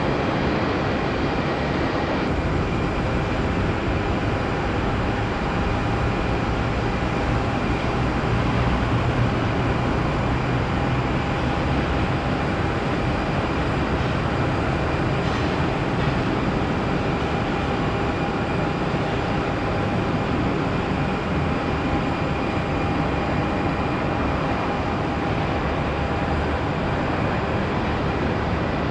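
Jet airliner engines running, a steady rushing noise with a faint constant whine through it.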